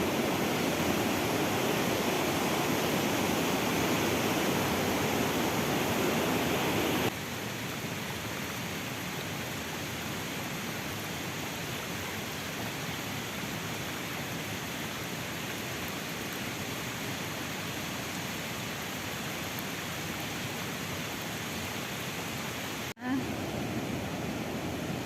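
Steady rushing of mountain water, an even hiss without rhythm. It is louder for about the first seven seconds, then drops abruptly to a lower steady level, with a brief dropout near the end.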